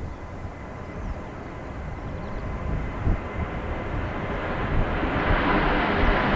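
Airbus A330-900neo's Rolls-Royce Trent 7000 turbofans at takeoff power, growing steadily louder, with a thin steady whine over the jet noise. Gusts of wind rumble on the microphone.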